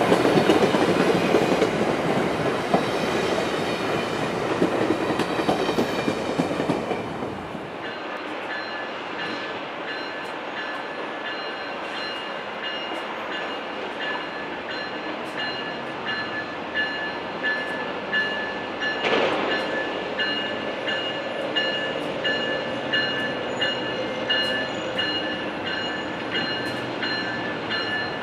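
Amtrak passenger cars rolling past close by, a loud, even rush of wheels on rail. After a cut, quieter steady ringing as a train approaches the platform, with regular strikes roughly once a second, like a locomotive bell.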